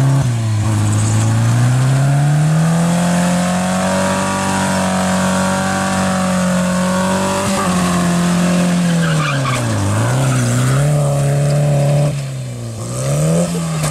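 Skoda 105 rally car's four-cylinder engine running hard at high revs, its pitch climbing and holding high, then easing off. The revs drop sharply twice near the end and pick up again.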